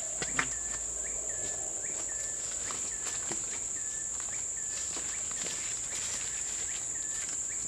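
Forest insects (crickets or cicadas) droning in a steady, high-pitched chorus, with a short chirp repeating about twice a second and a few light knocks.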